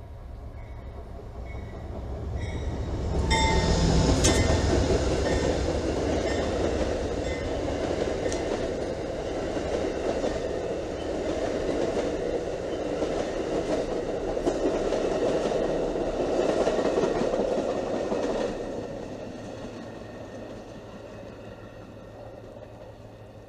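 A train passing on the line. The sound builds over a couple of seconds, stays loud for about fifteen seconds, then fades away.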